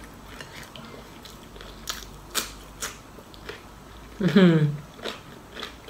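Close-up chewing of a deep-fried pork larb ball, with a handful of sharp crisp crunches. About four seconds in comes a short falling "mmm" from the eater, the loudest sound.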